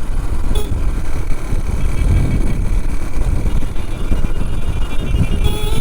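Motorcycle running at road speed, with wind rumbling heavily over the rider's microphone.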